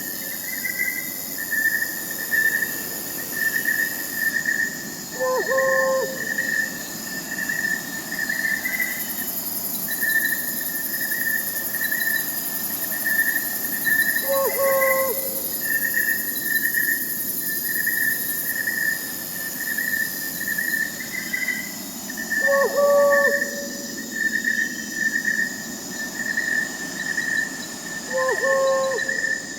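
Crickets chirping in a steady pulsing rhythm, with an owl giving a short hoot four times, several seconds apart, over a faint high hiss of night insects.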